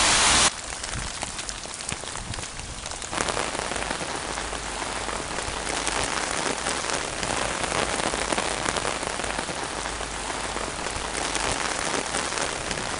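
Rain falling on a hard surface: a steady hiss with scattered drop ticks. A louder wash cuts off about half a second in, and the rain grows denser about three seconds in.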